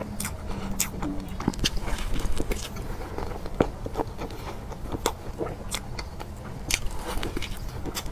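Close-miked mouth sounds of a person chewing a mouthful of soft chocolate cake with cream, with many irregular small wet clicks.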